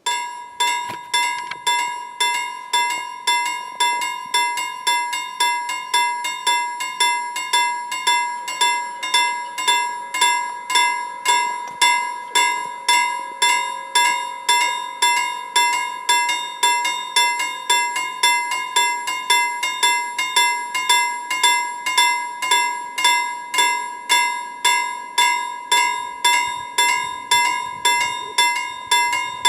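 Level crossing warning bell ringing with rapid, evenly spaced strikes, starting abruptly: the signal that a train is approaching the crossing. A low rumble joins it near the end.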